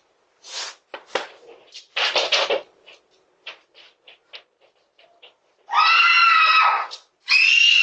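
Pig grunting and snorting in short bursts, then giving a loud, drawn-out squeal near the end, with a second squeal starting just after.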